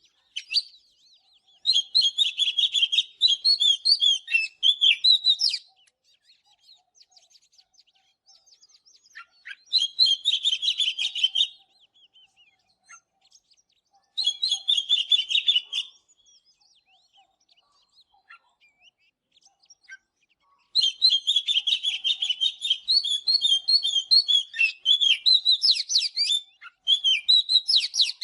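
Oriental magpie-robin singing five bursts of rapid, varied whistles and chirps, each two to five seconds long, with pauses of a few seconds between them.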